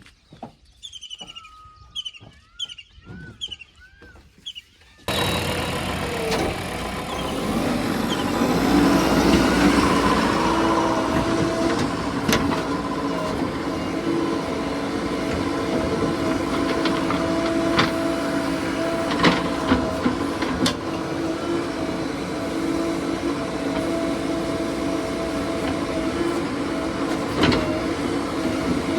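A bird calling with a repeated falling chirp for about five seconds. Then a sudden cut to a heavy diesel engine running steadily, with a few sharp knocks now and then.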